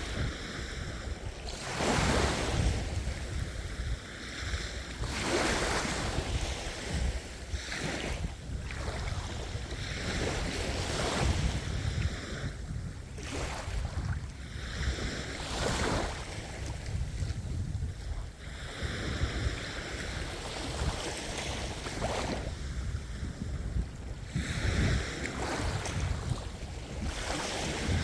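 Ocean waves breaking and washing in, a fresh surge of surf every two to three seconds over a steady low rumble.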